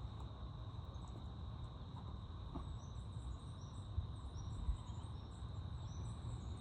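Outdoor natural ambience: a steady high insect buzz with short, faint high chirps repeating from about two and a half seconds in, over a low rumble. No parrot call stands out.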